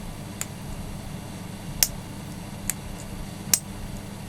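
Four sharp, separate clicks from the reassembled plastic switch button of an electric kettle being handled, over a steady low hum.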